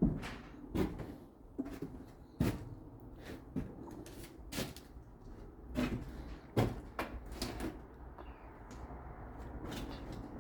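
A dozen or so irregular knocks and clicks, spaced roughly half a second to a second apart, over a low steady rumble.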